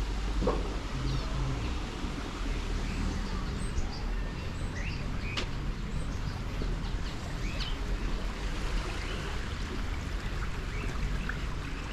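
Small birds chirping, with short, scattered calls high in pitch, over a steady low rumble of background noise.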